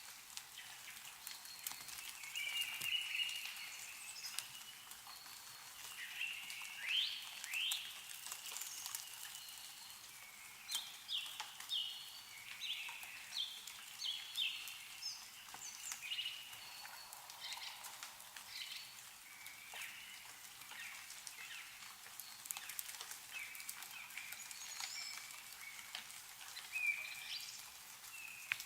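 Meltwater dripping from snow-covered trees in scattered single drops, while small birds chirp and call throughout in many short notes and quick sweeps.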